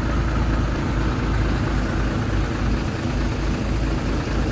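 A heavy diesel engine of an earthmoving machine running steadily, its sound mostly low in pitch.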